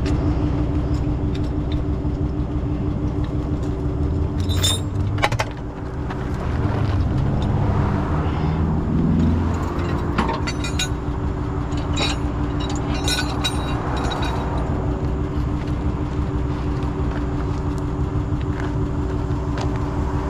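Tow truck engine running steadily with a constant low hum, while metal clinks and rattles come and go, as the car is tied down on the truck.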